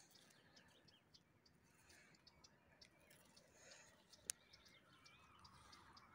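Near silence: faint outdoor ambience with scattered soft ticks and one sharp click about four seconds in, and faint bird chirps near the end.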